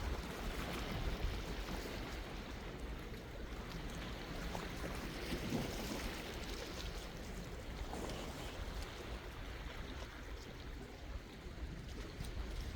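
Sea waves washing in, an even wash of water noise that swells a little now and then, over a steady low rumble.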